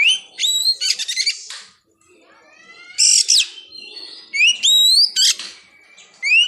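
Oriental magpie-robin (kacer) singing: loud upslurred whistles mixed with harsh, scratchy bursts, in phrases broken by a short pause about two seconds in.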